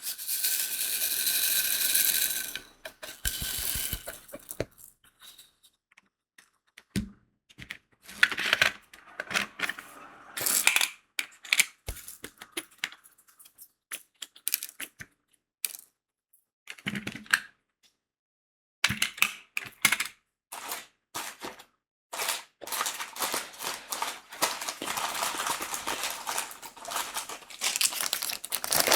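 Small plastic crystal drills for a diamond painting clicking and rattling in irregular bursts with short pauses. A longer rattle comes in the first couple of seconds, and dense, continuous rattling fills the last several seconds.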